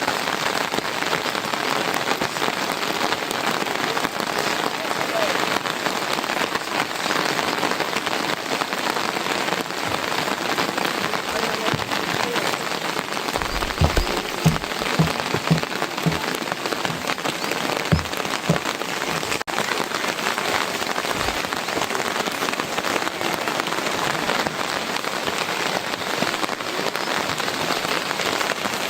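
Heavy rain falling in a steady, dense hiss. About halfway through, a handful of short dull thumps sound over it.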